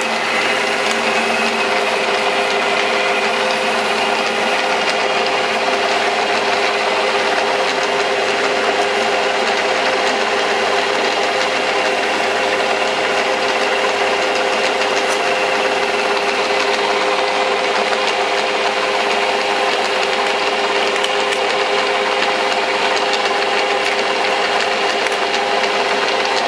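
Metal lathe running steadily under power feed, its motor and gearing giving a constant hum with a couple of steady tones, while the cutting tool scrapes continuously along a taper.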